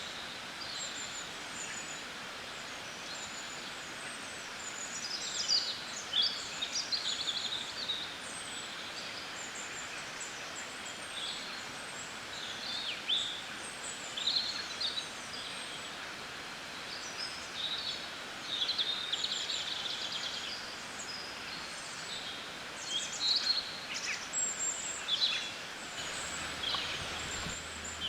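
Several songbirds chirping and singing in short, scattered phrases, over a steady background hiss of outdoor ambience.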